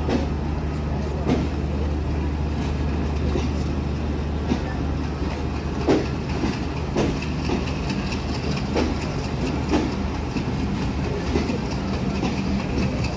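Bangladesh Railway passenger train running on the rails: a steady low hum, with the wheels knocking over rail joints roughly once a second in the second half.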